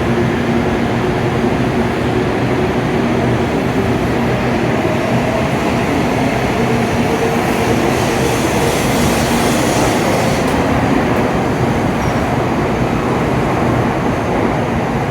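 N700A Shinkansen train pulling out of the platform, its cars rolling past with a loud, steady running noise and faint motor tones.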